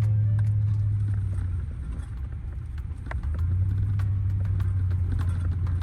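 Steady low drone of a vehicle running, easing off about two seconds in and picking back up a second or so later.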